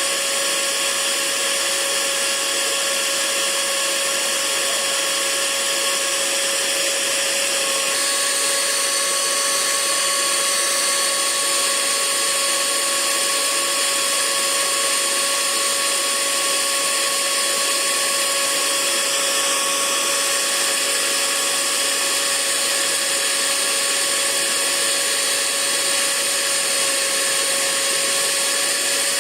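Hair dryer running steadily, a constant rushing of air with a motor hum and whine, used as white noise. Its tone shifts slightly about eight seconds in.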